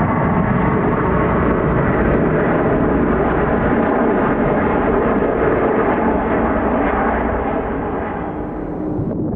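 Jet engines of a large widebody airliner, a loud steady rush of noise that eases off over the last couple of seconds and changes abruptly just before the end.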